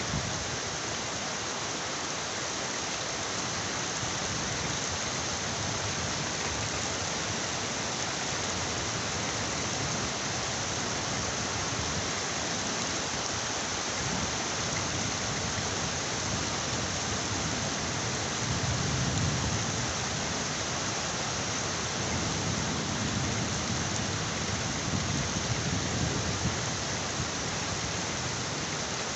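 Heavy rain falling steadily, a dense even hiss, with low rumbles of thunder swelling about two-thirds of the way in and again near the end.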